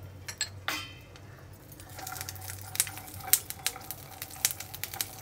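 Peeled garlic cloves sizzling in a little hot oil in a non-stick frying pan, crackling and popping more densely from about two seconds in as they are stirred. A single clink rings out under a second in.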